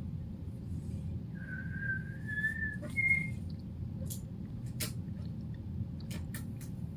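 A thin whistling tone creeps slightly upward for about a second and a half, then gives a short higher note. Several sharp snips of scissors cutting balloon rubber follow.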